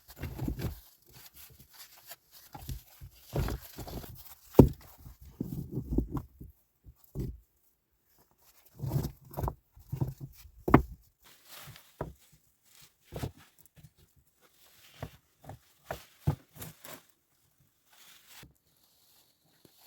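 Irregular crunching, rustling and knocking sounds, some sharp and some in short clusters, broken by brief pauses.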